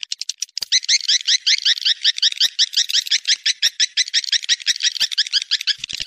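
Swiftlet twittering: a fast, continuous run of high, sharp chirps, many a second, starting about half a second in. This is a swiftlet "mating call" recording of the kind played to lure swiftlets.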